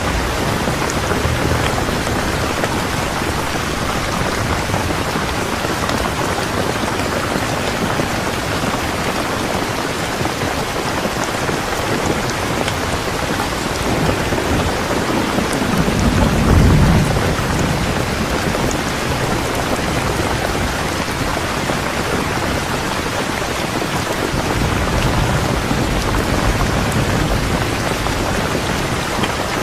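Steady rain falling, an even hiss, with a low rumble of thunder swelling and fading about sixteen seconds in and a fainter rumble later.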